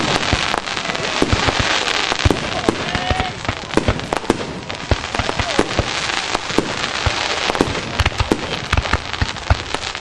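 Fireworks going off: a dense run of sharp cracks and pops, many of them close together, over a steady crackling hiss.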